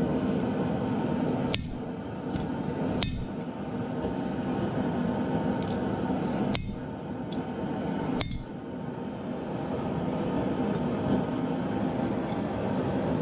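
Hammer forging a hot steel knife blade on an anvil, over a steady noise from the forge. A few times there is a short break with a high metallic ring.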